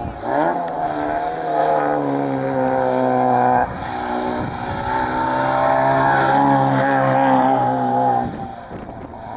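Rally car engine pulling hard at high revs, with a sharp drop in pitch about three and a half seconds in as it shifts up. It then climbs steadily in pitch again and dies away near the end.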